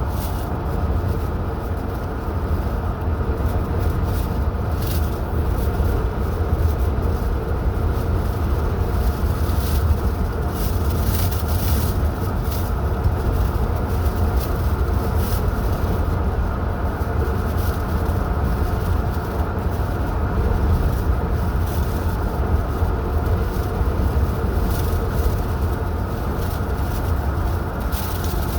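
A car driving at a steady speed: continuous low rumble of engine and tyres on the road, with a few faint light ticks.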